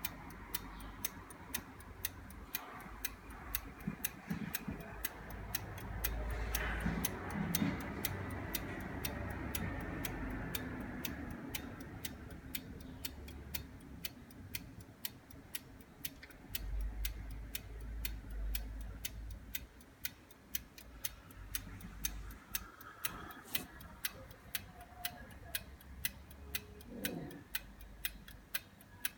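8-day English marine chronometer ticking steadily, about two sharp ticks a second.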